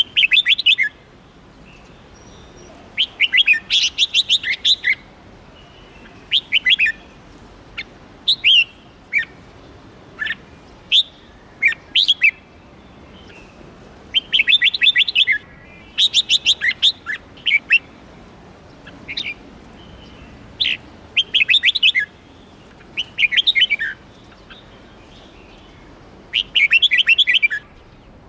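Red-whiskered bulbul singing: short phrases of rapid chattering notes, repeated every second or two with brief pauses between.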